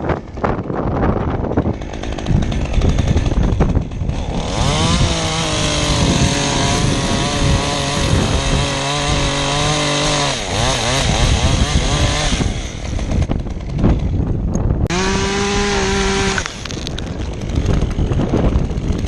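Two-stroke Stihl chainsaw cutting, its pitch sagging under load for several seconds before falling away as the throttle is released; a second, higher-revving burst comes near the end. Wind rumbles on the microphone.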